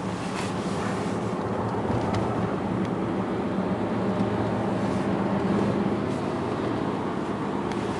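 Steady hum of a car's engine and tyres heard from inside the cabin while driving at road speed, with a few faint ticks.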